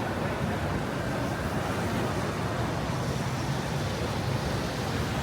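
Steady city street traffic noise: an even, low rumble of passing vehicles with no single event standing out.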